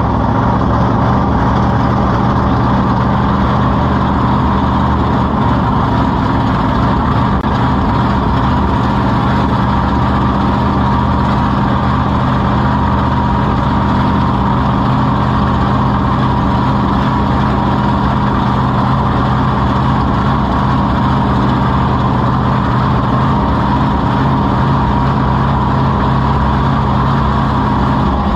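King Krunch monster truck's engine idling steadily, recorded on board the truck, with no revving.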